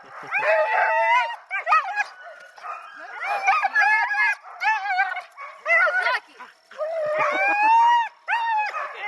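Sled dogs howling and yipping, several voices overlapping in short rising and falling calls.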